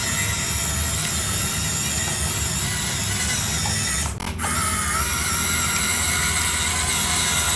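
Small electric motor and plastic gearbox of a toy RC tractor running with a steady whine and gear rattle. The sound drops out briefly about four seconds in, then picks up again.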